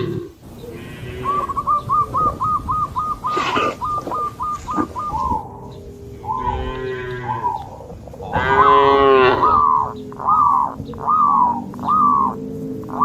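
Cattle mooing, several long calls with the loudest about two-thirds of the way through, over runs of short high chirps repeated several times a second.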